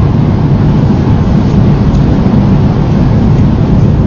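Loud, steady rumble and hum inside the passenger cabin of a high-speed train as it accelerates, climbing from about 150 to 180 km/h.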